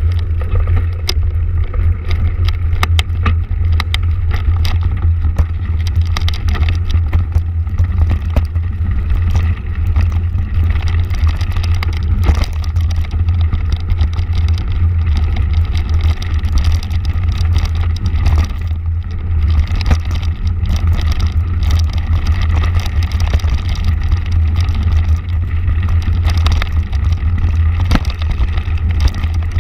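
Motorcycle being ridden, its engine running steadily with a heavy low rumble and scattered sharp ticks.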